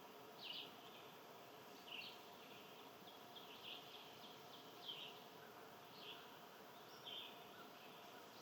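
Faint short bird chirps, repeated about every second or so, over a steady low background hiss.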